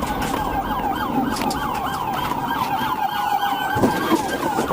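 Police car siren in its fast yelp pattern, about four rising-and-falling sweeps a second, from a patrol car in a pursuit. A single short thump sounds near the end.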